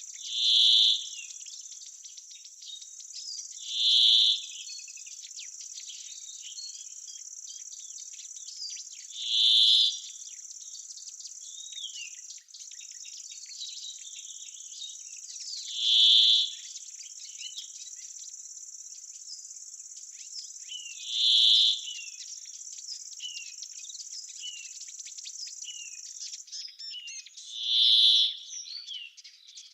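Summer woodland ambience. A steady high insect trill, typical of crickets or bush-crickets, runs until it stops near the end. Over it a loud, short call repeats six times, about every five to six seconds, among scattered faint bird chirps.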